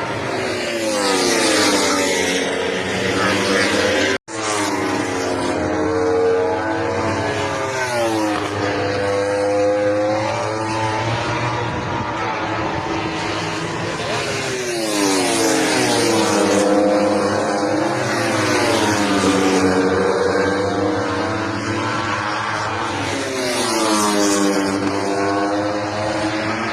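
MotoGP race motorcycles' four-cylinder engines revving hard, their pitch climbing and dropping again and again as they accelerate and shift. The sound cuts out for an instant about four seconds in.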